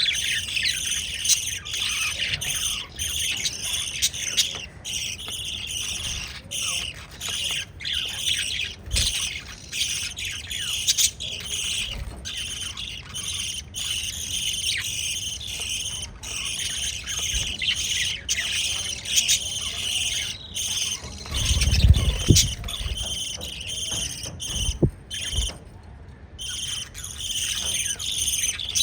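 Pet lovebirds chirping rapidly and continuously in high, shrill tweets. There is a brief low thump or rumble about three-quarters of the way through, and the chirping falls quiet for a moment shortly after.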